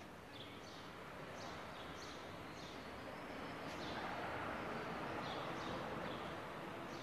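A small bird chirping over and over in short, high calls, over steady street background noise that swells to its loudest about four seconds in and then eases a little.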